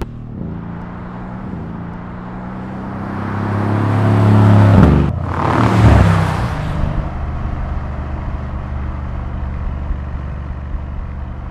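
Mercedes-AMG S 63 Cabriolet's 4.0-litre twin-turbo V8 driving past. The engine note builds for about five seconds and peaks with a rush of tyre and wind noise as the car goes by, about halfway through. It then settles into a steady engine drone.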